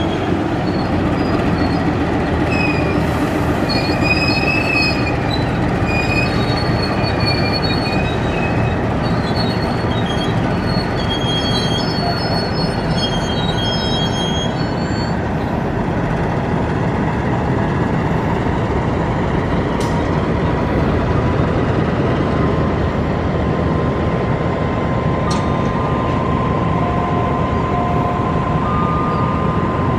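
A passenger train hauled by a KAI CC 206 diesel-electric locomotive passes close by. The locomotive goes by at the start, then the coaches roll past with a steady loud rumble of wheels on rails. Short high-pitched wheel squeals come and go through the first half.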